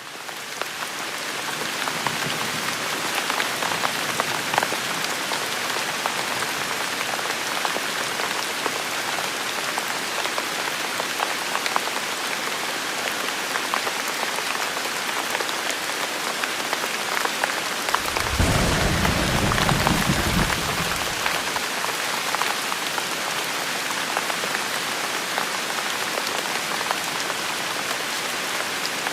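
Steady rain falling, with individual drops ticking through the patter. About two-thirds of the way through, a low rumble of thunder lasts for about three seconds.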